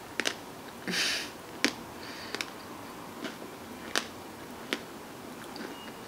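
Close-miked mouth sounds of chewing ice cream with the mouth closed: scattered sharp, wet clicks and smacks, with a short breathy hiss about a second in.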